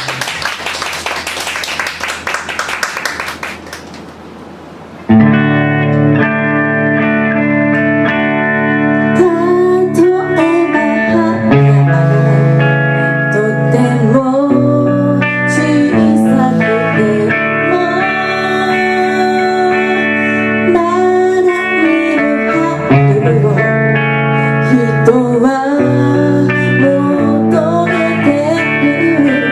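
Live rock band: a clattering drum and cymbal wash dies down over the first few seconds. About five seconds in, the full band comes in loud, with sustained guitar chords and an electric guitar lead line that bends in pitch.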